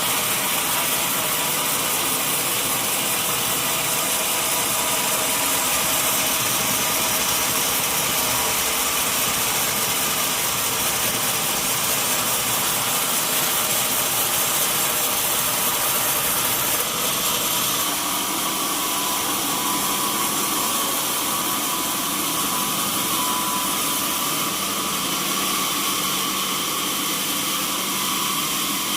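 Sawmill machinery running steadily while sawing a mahogany log, a continuous mechanical drone with a few held tones. Its pitch and level shift slightly about two-thirds of the way through.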